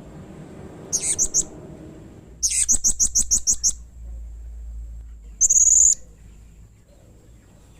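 Blue-crowned hanging parrot (serindit) calling in shrill, high-pitched bursts: a short run of four quick notes, then a longer rapid run of about nine, then one harsh buzzy note.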